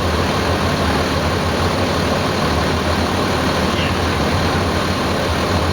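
Fire engine's diesel engine running steadily with a low rumble.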